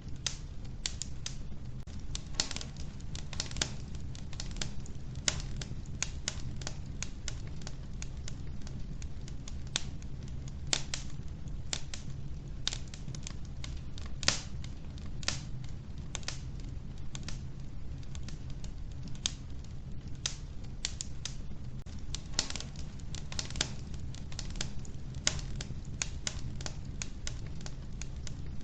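Logs burning in a wood-burning stove, crackling with irregular sharp pops and snaps, several a second, over a steady low rumble.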